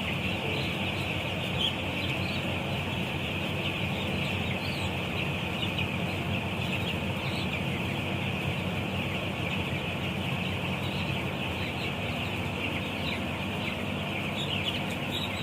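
A large flock of week-old broiler chicks peeping continuously, a dense chorus of many overlapping high peeps, over a steady low hum.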